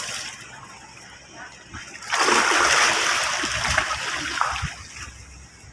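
A loud splash of water about two seconds in, then water sloshing and fading over the next few seconds.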